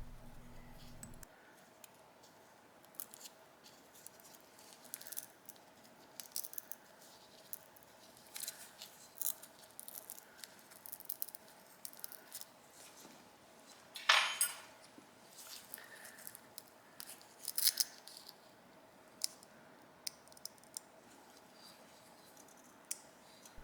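Faint, scattered clicks, taps and light scrapes of small hand tools on a Yamaha VMAX carburetor's air cut valve, with a louder click about 14 seconds in and another near 17 seconds. The valve's hardened rubber diaphragm has lost its elasticity and is being picked away.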